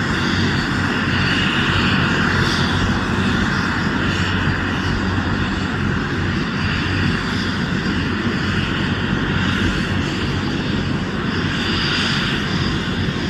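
Helicopter's turbine engine and rotor running steadily close by, a constant loud drone with no change in speed.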